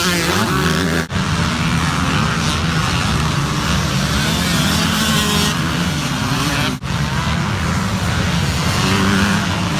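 Dirt bike engine running steadily under a dense wash of noise, which cuts out abruptly for an instant twice: about a second in and near seven seconds.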